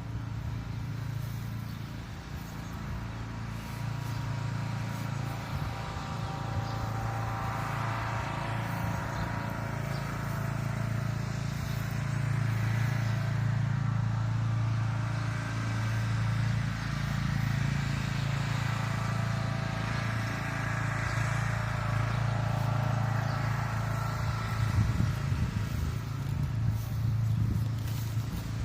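Steady low engine hum, with a higher tone swelling and fading twice, as of motor vehicles going by.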